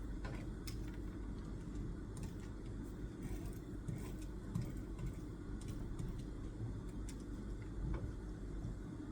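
Quiet desk-study room sound: a steady low hum with scattered faint, light clicks and taps from work at the desk, a dozen or so irregular ticks over several seconds.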